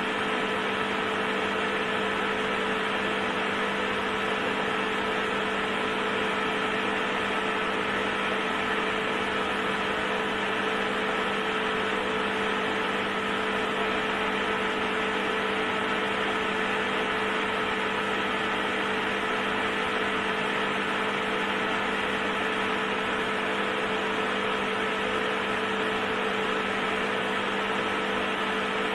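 Induction heater running steadily: an unchanging hum with several held tones over a hiss.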